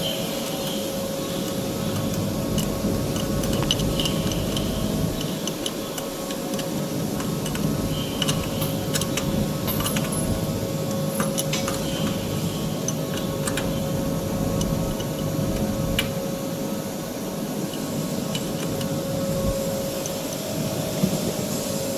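Steady machinery drone with a constant hum, overlaid by many scattered sharp metallic clicks and clinks, as from hand work on metal machine parts.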